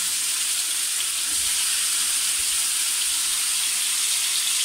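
Chicken pieces frying in ghee in an aluminium pot, a steady high sizzle.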